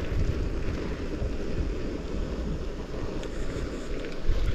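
Wind buffeting the microphone: a low, uneven rumble with a fainter hiss over it.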